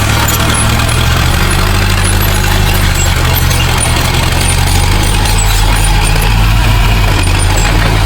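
Heavy diesel engine of earthmoving equipment running steadily at an even, low pitch.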